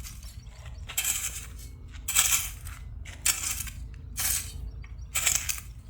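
Gravelly soil being scooped and tossed into a planting hole to cover a tree's roots. It comes as a gritty rattle about once a second, five times.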